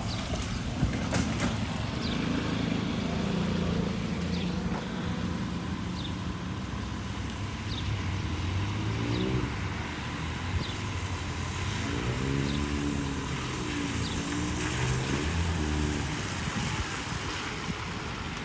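Road traffic on rain-soaked streets: the steady low rumble of car engines with the hiss of tyres and water, and an engine's pitch wavering up and down a few times.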